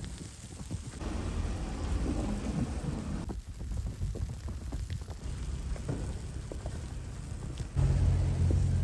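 Footsteps crunching in snow against a low, uneven rumble of wind on the microphone; the rumble gets suddenly louder near the end.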